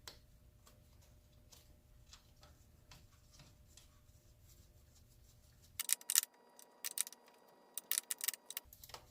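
Hand ratchet wrench clicking while a bolt is run in on the compressor, with faint scattered ticks at first, then a run of louder quick clicks from about six seconds in.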